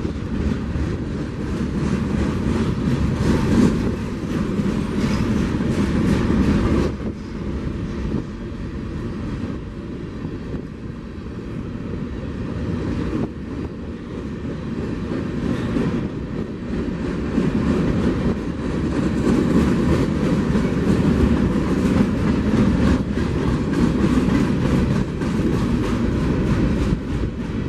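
A train rolling past at close range, a steady rumble of railcars with the wheels clicking over the rail joints; it eases off a little for several seconds, then grows louder again.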